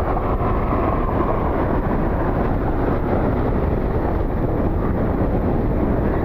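Jet engines of a departing heavy cargo jet climbing away, a steady noise with a faint whine that falls slightly in pitch over the first couple of seconds, mixed with gusty wind on the microphone.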